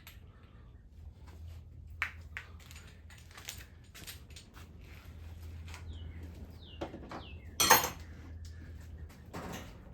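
Metal hand tools and engine parts clinking and clattering while an engine is taken apart, with one louder clatter about three-quarters of the way through.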